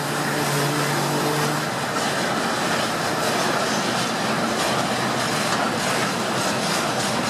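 Railway tank cars of a freight train rolling past: a steady rumble and clatter of the wheels on the rails, with faint clicks at the rail joints.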